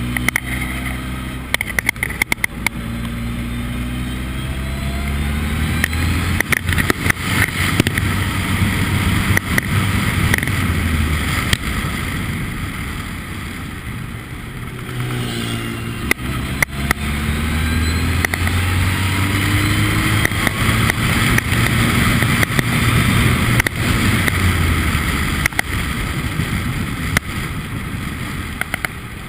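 Formula Ford race car engine at speed, its pitch climbing repeatedly through the gears, dropping away and quieter about halfway through, then climbing again. Sharp clicks run through it.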